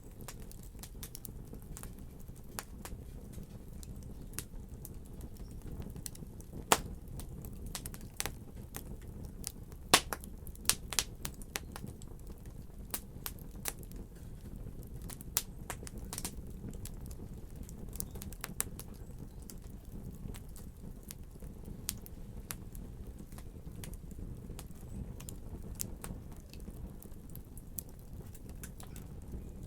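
Wood fire in a fireplace crackling, with a steady low rumble of the flames and frequent irregular pops and snaps of burning wood, a few louder ones around a third of the way in.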